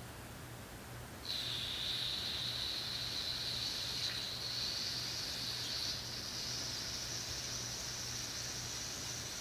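An aerosol can of ether starting fluid sprays in one long hiss into the intake to prime the 1915 Rawleigh-Schryer hit-and-miss engine for starting. The hiss begins about a second in and shifts slightly higher in pitch partway through.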